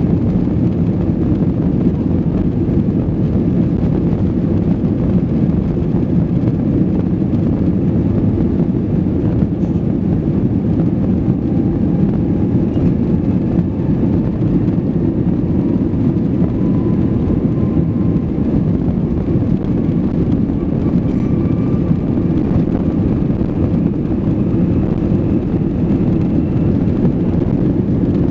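Cabin noise aboard an Airbus A320 under power at take-off: a steady, loud rumble of the jet engines and airflow, with a faint engine whine that slowly rises in pitch through the middle.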